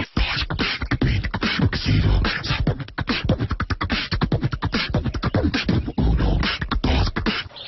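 Beatboxing: rapid vocal-percussion clicks and snaps over low bass thumps.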